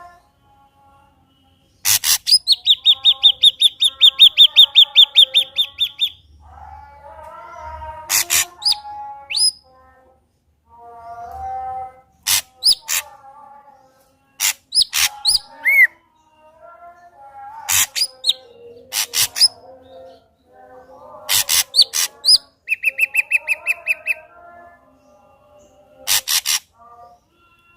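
Ashy drongo singing: a loud, fast trill of about ten notes a second lasting some four seconds, sharp short notes and quick whistles, quieter warbling phrases in between, and a second shorter trill near the end.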